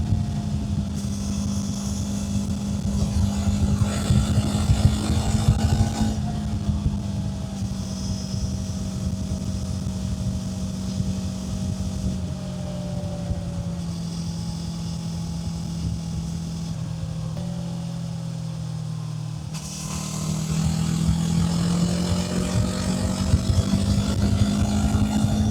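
Kawasaki Z500's parallel-twin engine running under way, with wind rush. The engine note holds steady, drops in steps through the middle as the rider eases off, then rises again about twenty seconds in as the bike pulls away.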